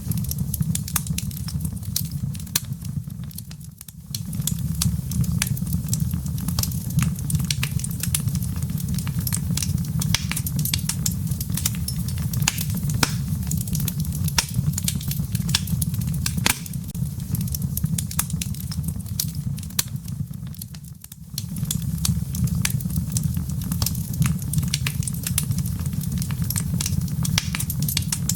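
Fireplace fire crackling with many sharp pops and snaps over a steady low rumble. The sound drops away briefly twice, about four seconds in and again about twenty-one seconds in.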